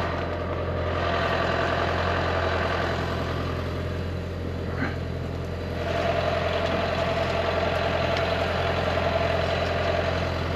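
Engine of the vehicle moving the boat, running steadily under a constant low hum. Its higher engine note drops away in the middle and comes back about six seconds in.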